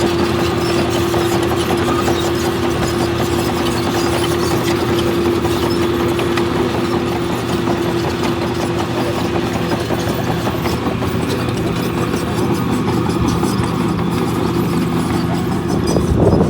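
Heavy construction machine's diesel engine running steadily, with a constant hum and a steady tone over it, changing abruptly right at the end.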